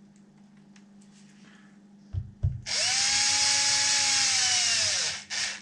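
Power drill driving a beadlock ring screw into a 1/5 scale RC truck wheel: two knocks about two seconds in, then the motor runs for about two and a half seconds, its pitch rising a little and dropping as it stops, with a short second burst at the end.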